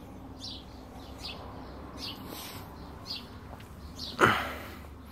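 A small bird chirping, short high chirps roughly once a second, over a faint low hum; a single loud knock about four seconds in.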